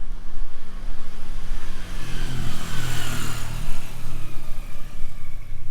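A motor vehicle driving past, its engine and tyre noise swelling to a peak about halfway through and then fading as it moves away, over steady low rumble.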